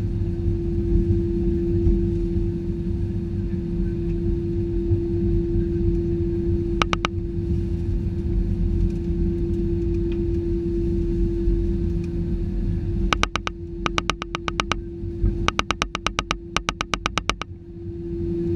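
Airbus A320-214 heard from inside the cabin: a steady engine hum over a low rumble. A pair of sharp clicks comes about a third of the way in. From about two-thirds in there are several bursts of fast, evenly spaced clicking.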